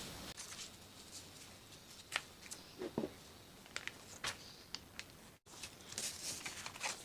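Coloured paper being pressed onto glued cardboard by hand: faint, scattered rustles and light taps of paper and cardboard.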